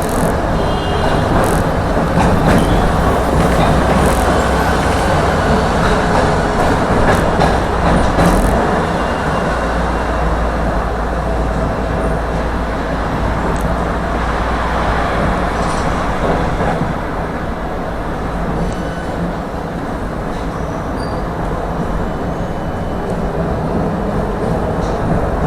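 Tram running along the track, heard from inside the car: steady wheel-on-rail rumble and motor hum, with a few sharp clicks in the first seconds. The low hum drops away about eight seconds in.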